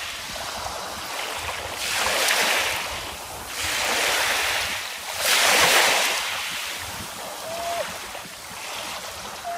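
Sea waves washing onto the shore in surges, three louder ones a couple of seconds apart, with wind buffeting the microphone.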